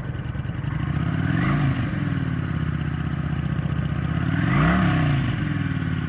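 Kawasaki Vulcan 900's fuel-injected, liquid-cooled 900cc V-twin idling just after starting, blipped twice, with the pitch rising and falling back each time, about a second and a half in and again near five seconds.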